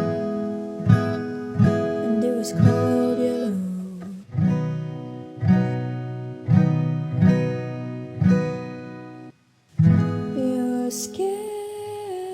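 Acoustic guitar strummed in a steady rhythm, an instrumental stretch of a pop song, with a brief break about nine seconds in before the chords resume.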